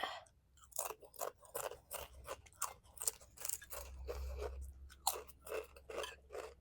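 Close-miked chewing and wet lip smacking of someone eating kheer, sweet rice pudding, in a quick run of short smacks, about three a second.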